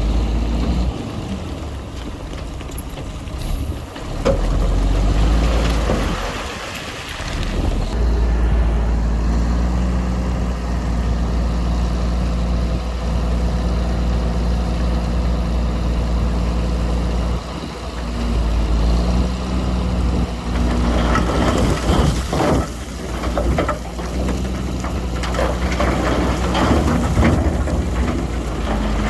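Heavy diesel engine of earth-moving machinery, a bulldozer or dump truck, running steadily with a deep rumble and a few brief dips in level. Clattering, scraping noise rises over it in the last several seconds.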